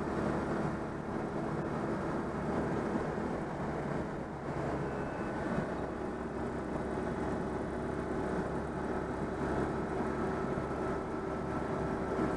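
Citroën 2CV's air-cooled flat-twin engine running steadily as the car drives along, mixed with road noise, just after an engine overhaul.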